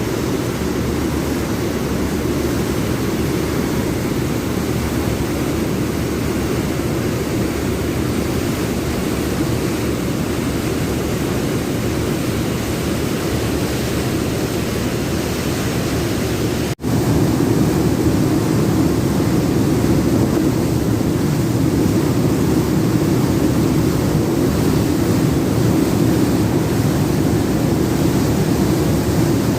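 Steady rushing roar of a fast ferry's twin waterjet engines running at speed, mixed with churning water. It breaks off for an instant about two-thirds of the way through, then carries on slightly louder.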